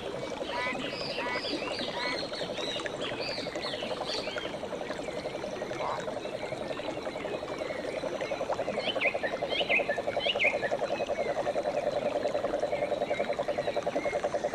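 Frog calling in a fast, even trill that runs on steadily and grows louder about halfway through, with birds chirping and whistling over it.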